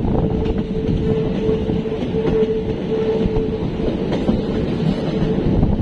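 Passenger train running on the rails, heard from on board: a steady rumble and wheel clatter, with a steady whine that comes and goes and drops out near the end.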